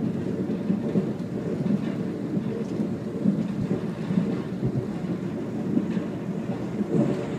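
Steady low rumble of an Amtrak train running on the rails, heard from inside the passenger car.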